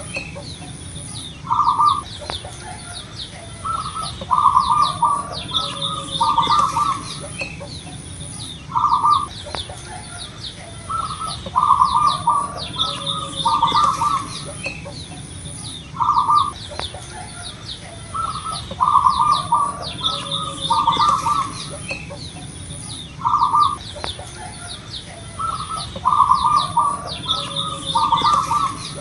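Zebra dove (perkutut) cooing: short groups of rolling coo notes every couple of seconds, the loudest sound. Behind it runs a dense high chirping of small birds and a steady high pulsing.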